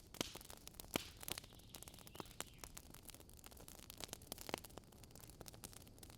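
Campfire of dry wood burning, crackling with many irregular sharp pops and snaps, the loudest about a second in and another near the middle.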